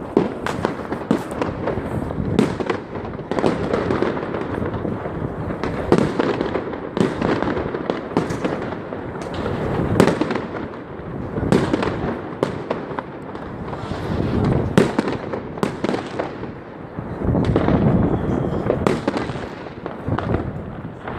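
Many fireworks and firecrackers going off at once, with frequent sharp bangs over a continuous crackling and rumbling din.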